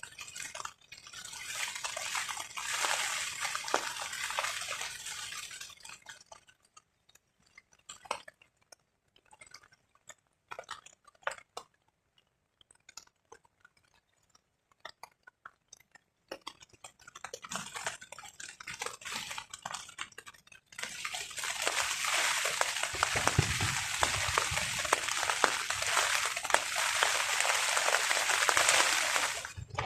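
Rain on a tarp shelter: a heavy spell at first, then a lull with scattered single drops, and heavy rain again from about 21 seconds in. Low wind rumble joins it a couple of seconds later.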